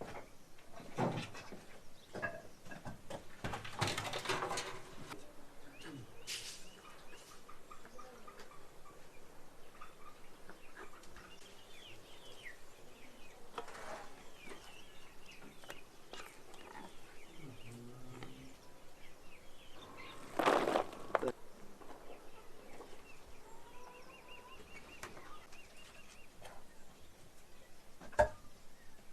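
Small birds chirping on and off, with a few scattered rustles and knocks; the loudest rustle comes about twenty seconds in, and a sharp click near the end.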